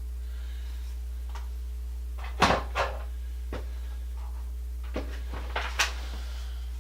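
A handful of scattered knocks and clicks from exercise-bike parts and hardware being handled during assembly. The loudest two come about two and a half seconds in and smaller ones follow, over a steady low hum.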